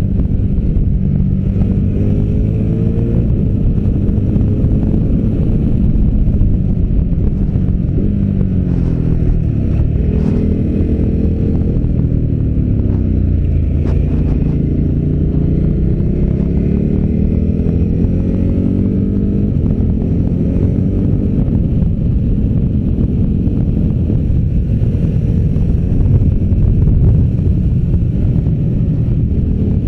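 V-twin adventure motorcycle engine under way, its pitch climbing and dropping several times as the bike accelerates and slows, with a long climb about midway, over wind rush on the microphone.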